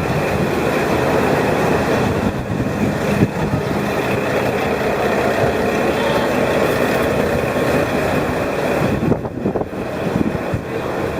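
A diesel local train running along the line, heard from inside the car: a steady rumble and rattle that dips briefly about nine seconds in.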